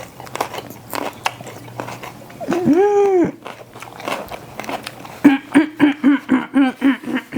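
A person biting and chewing a fresh habanero pepper stuffed with mole, with small crunchy clicks. About two and a half seconds in comes one long hummed 'mmm' that rises and falls, and near the end a quick run of short hummed pulses.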